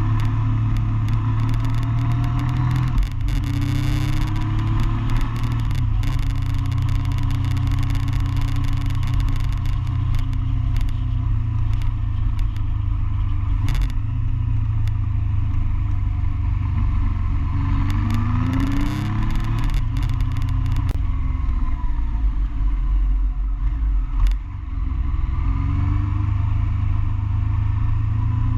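Motorcycle engine under way, heard from the bike itself: it revs up and drops back at each gear change several times, with a steady low drone between.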